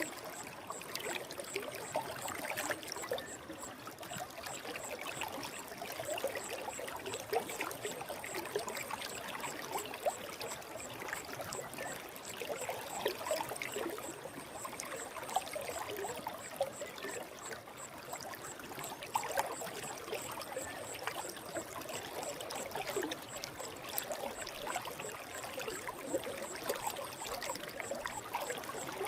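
Forest stream flowing: a steady babble and trickle of water. A faint high-pitched pulsing tone runs above it, about twice a second.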